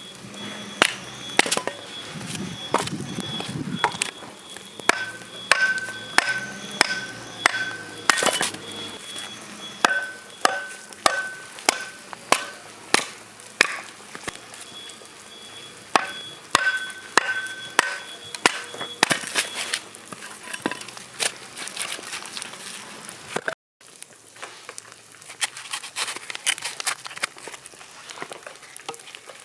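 Repeated sharp chopping strikes on wood, about one a second, like firewood being split or kindling chopped for a campfire; the strikes grow lighter after a brief break a little past the middle.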